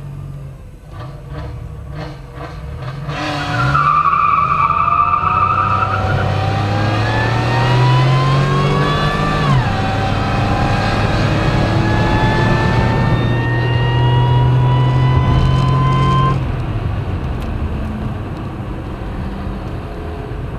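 Car engine heard from inside the cabin, accelerating hard. About three seconds in it revs up, and its pitch climbs steadily until a sharp drop at an upshift near the ten-second mark. It then climbs again more slowly until the throttle is eased about sixteen seconds in.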